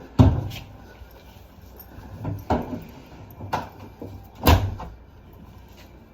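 About five sharp knocks and clunks a second or so apart, the loudest near the start and again about four and a half seconds in: panels and parts of a Samsung washer-dryer's front being handled as it is taken apart.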